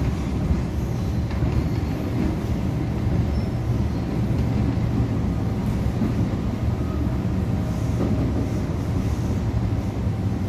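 Interior running noise of an MTR M-Train electric multiple unit under way, heard from inside the car: a steady low rumble with no sudden knocks.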